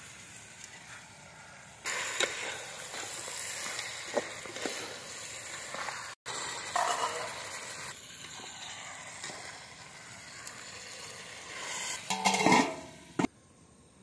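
Onions, tomatoes and chicken sizzling as they are sautéed in a metal pot over a wood fire, with a metal ladle scraping and clicking against the pot as it is stirred. The sound gets louder about twelve seconds in, then drops away to quiet.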